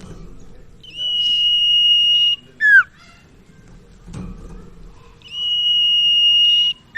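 Burung sirtu (cipaw) call: a long, level, high whistle followed by a short note that drops sharply in pitch, repeated twice.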